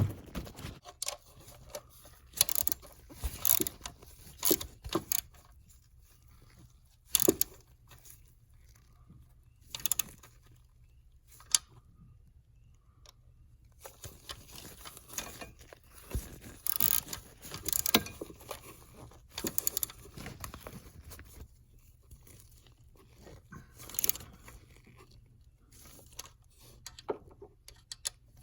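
Irregular metallic clicks, clinks and clatter of hand tools and small parts being handled, with a faint steady low hum underneath.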